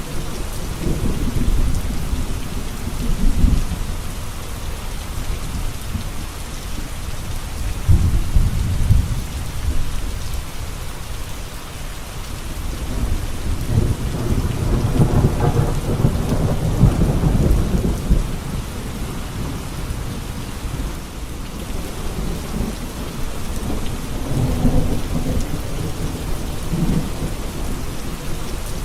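Steady rain falling, with low thunder rumbling several times; the longest roll comes about halfway through.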